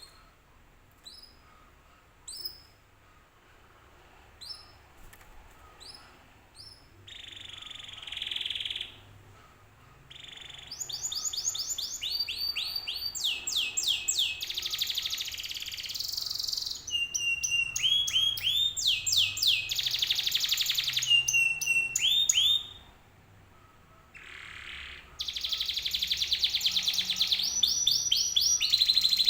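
Domestic canary song: a few separate short rising chirps at first, then long fast trills and rolling, sweeping notes from about ten seconds in. The song breaks off for about two seconds three quarters of the way through, then the trills resume.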